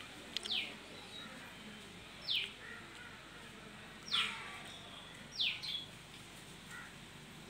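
A bird calling: four short, high whistled notes, each sliding steeply down in pitch, spaced a second or two apart.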